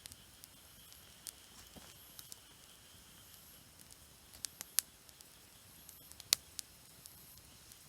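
Campfire wood crackling, with irregular sharp pops and snaps over a faint steady hiss; the loudest pop comes about six seconds in.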